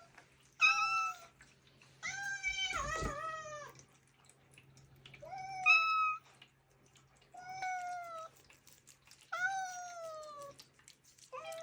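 Domestic cats meowing at treat time, asking for treats: about six drawn-out meows a second or two apart, most sliding down in pitch. The second call is longer, with a rough stretch in its middle.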